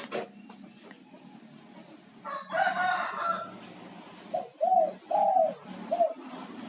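Spotted dove (derkuku) cooing: four short arched coos in a quick phrase, the third one longest, about four seconds in. A rougher, noisier call comes about two and a half seconds in.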